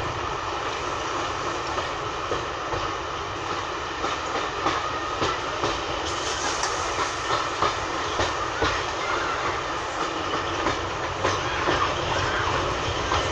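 Railway carriage running along the track, heard from on board: a steady rumble with irregular clicks of the wheels over the rail joints.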